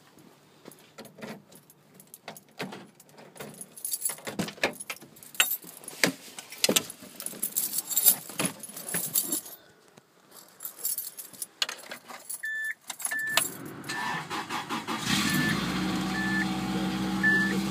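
Keys jangling and door-handling clicks, then a dashboard warning chime beeping repeatedly about two-thirds of the way in. Near the end the 1996 Subaru Impreza's flat-four engine starts and runs at a high, steady cold-start idle of about 2,000 rpm, in 15 °F cold on 0W-40 oil.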